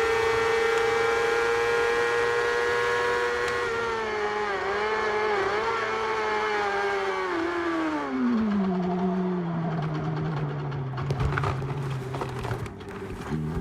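Motorcycle engine revved high and held there for a few seconds. The revs then waver and fall away over about four seconds to a lower steady note, and start to climb again right at the end.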